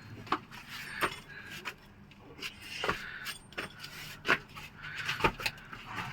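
Irregular metallic clinks and knocks of hand tools being handled under a car, with two louder knocks in the second half.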